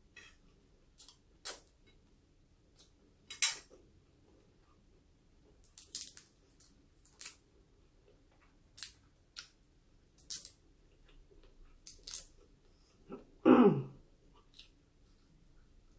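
Close-up eating sounds: a person chewing food, with a dozen or so short, sharp mouth clicks and crackles spread irregularly. Near the end comes one louder, longer sound that falls in pitch.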